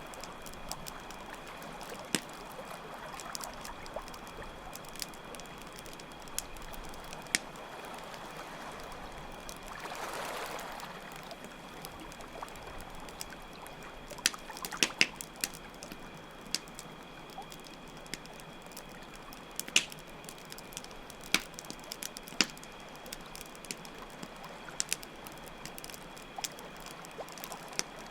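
A campfire crackling with scattered sharp pops over steadily running water, with crickets chirping in a steady high drone. The water swells briefly about ten seconds in.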